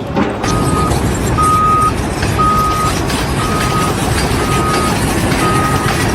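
Reversing alarm on a heavy vehicle beeping a single steady tone about once a second, six beeps starting about half a second in, over the noisy running of the vehicle's engine.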